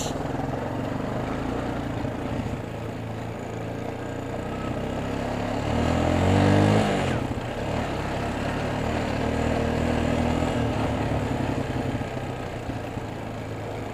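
Semi-automatic ATV (four-wheeler) engine running under way, revving up louder about six seconds in, then easing back to a steady run.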